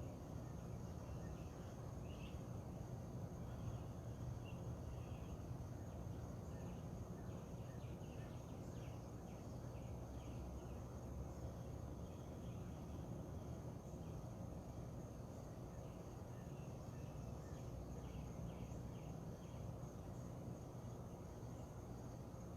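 Outdoor dawn ambience: a steady high insect drone with scattered short bird chirps over a low steady rumble.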